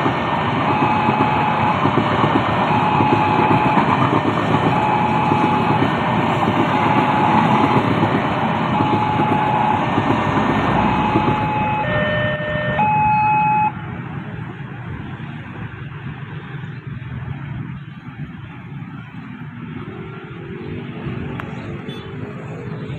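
Railway level-crossing warning signal sounding a repeated electronic tone about every two seconds over the loud rumble of a passing train. Both cut off suddenly about fourteen seconds in, leaving quieter traffic noise.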